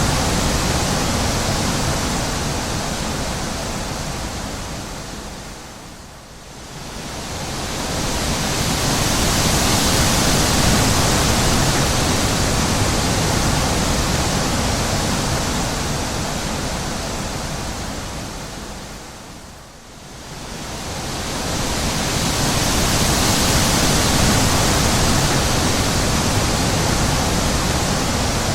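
Wind blowing in long gusts, a broad rushing noise that swells and dies away, sinking almost to nothing about six seconds in and again about twenty seconds in before rising again.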